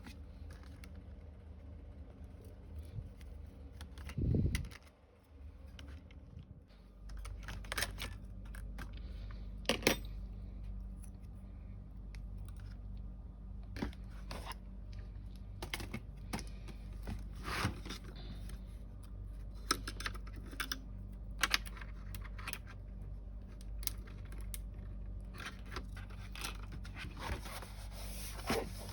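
Scattered small clicks and taps of hands handling hard parts or tools. There is a louder thump about four seconds in, and a steady low hum comes in about seven seconds in.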